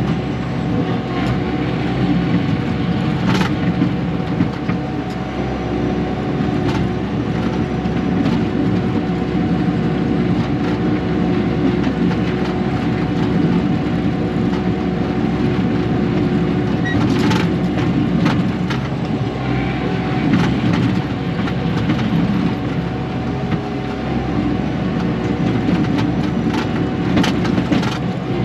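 Kubota KX080-4 excavator's diesel engine running steadily while working. A few sharp cracks and knocks come through as brush and rock are worked.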